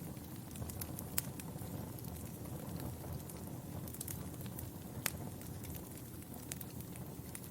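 Wood fire crackling in a fireplace: a steady low rush of flames with scattered sharp pops, the loudest about a second in and about five seconds in.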